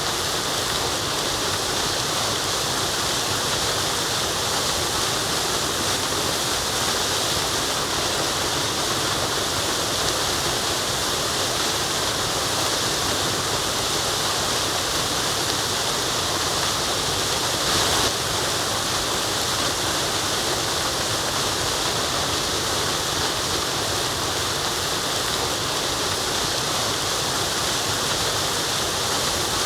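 Waterfall: a steady, dense rush of falling water, with one slightly louder splash about eighteen seconds in.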